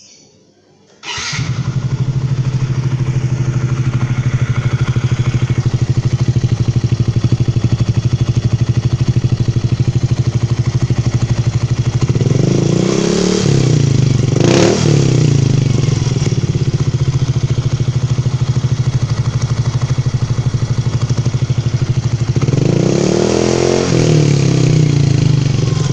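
Yamaha Mio Z scooter's single-cylinder four-stroke engine with an aftermarket CSR racing exhaust, starting about a second in and idling loudly and steadily. It is revved twice, around halfway and near the end, its pitch rising and falling each time.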